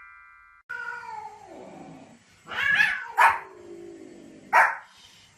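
A dog making long whining calls that fall in pitch, broken by three short, sharp barks.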